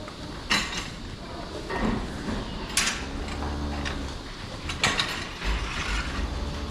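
Mechanical clanking and rattling, three sharp clatters over a low steady hum.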